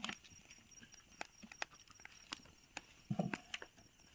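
Faint, scattered clicks and taps at irregular intervals, with a brief low murmur of a voice about three seconds in.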